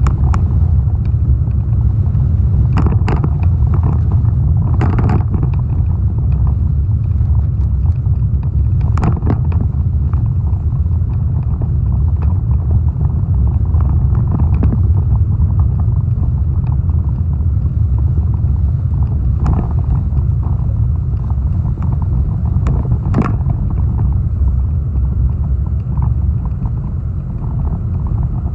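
Strong hurricane wind buffeting the microphone: a loud, steady low rumble, with several brief crackles standing out along the way.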